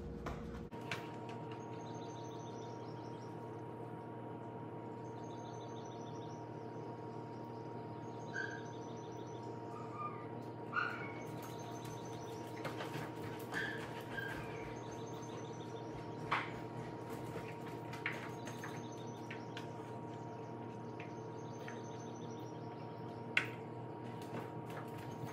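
Songbirds singing outside an open front door: a short, high trilled phrase repeated every couple of seconds, with a few scattered chirps. Under it runs a steady hum, and a few sharp clicks are heard.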